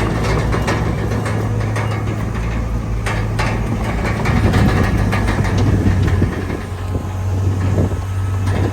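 Bulldozer's diesel engine running steadily, with the steel tracks clanking and rattling irregularly as it works.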